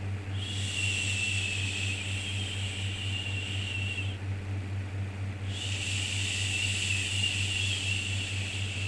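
Long drawn-out shushing 'shhh' sounds for soothing a baby: two in a row, each about four seconds, with a short pause between. Beneath them runs steady white noise with a low hum.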